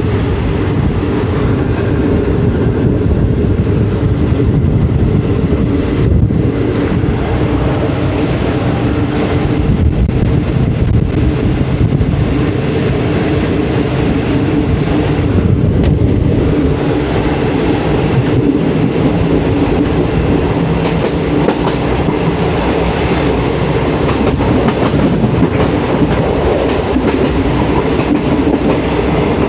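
Train running along the railway track with a steady, continuous rumble.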